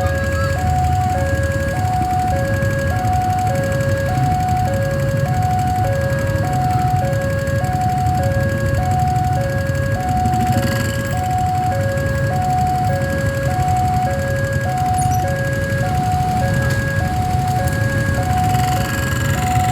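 Railway level crossing warning alarm sounding a repeating two-tone high-low chime, about one high-low pair every second and a bit, warning that a train is approaching. A steady low rumble runs underneath.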